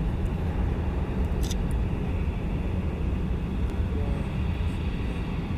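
Steady low rumble of a Boeing 747-400 freighter's four jet engines on final approach to land.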